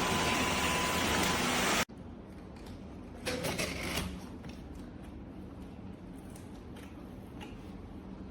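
Dyson Gen5outsize cordless stick vacuum running with an even rushing noise and a steady whine, cutting off abruptly about two seconds in. After it stops come faint clicks and handling sounds, loudest about a second later.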